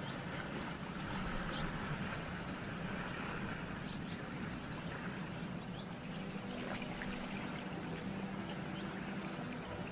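Small waves washing on a sandy beach, a steady hiss of surf, with faint distant music and short high chirps over it.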